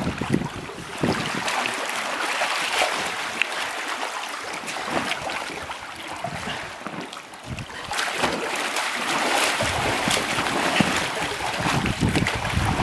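Swimming-pool water splashing and sloshing, with wind buffeting the microphone.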